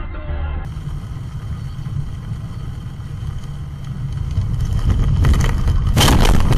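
Car engine and road noise, a steady low rumble that grows louder, then a loud rough burst of noise about five to six seconds in.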